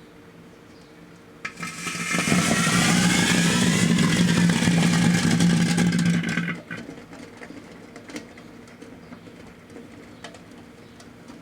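A small 'June Bugs' fountain firework burning inside a running microwave oven. It gives a loud spraying hiss with a wavering whine in it, starts about a second and a half in and cuts off sharply after about five seconds, over the oven's steady hum. A few scattered crackles follow.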